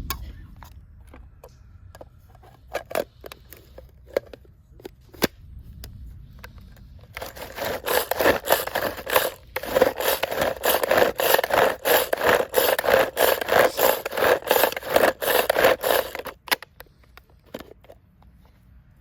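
Scattered taps and clicks, then a long run of rapid, rhythmic scraping strokes on wood that stops suddenly near the end, the sound of food preparation on a board.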